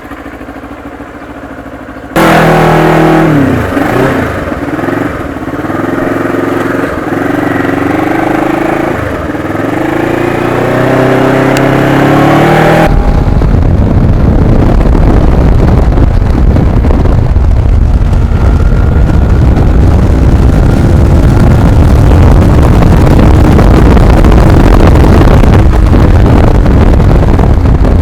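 Kawasaki Ninja motorcycle engine: a quiet idle, then about two seconds in it gets suddenly loud as the bike revs and pulls away, its pitch climbing and dropping several times. From about halfway it gives way to a loud, steady rush of wind and engine while the bike is ridden at speed.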